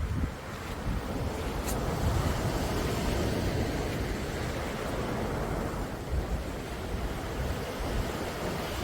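Sea waves washing in and out in a steady surge, with wind rumbling on the microphone.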